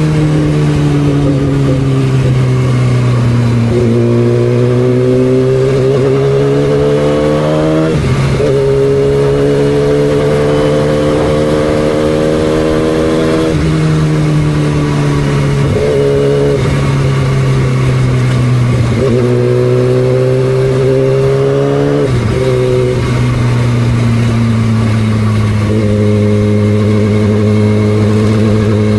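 2006 Yamaha R6's inline-four engine under way, the revs climbing and falling in turn, with sudden breaks in pitch several times where gears change.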